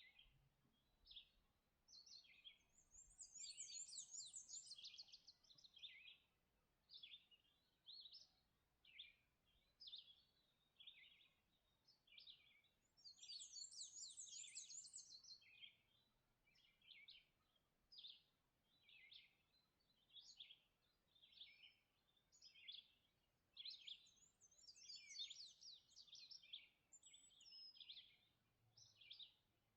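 Faint songbirds singing: short chirping phrases repeat about once a second, and three times a longer, higher, warbling song breaks in.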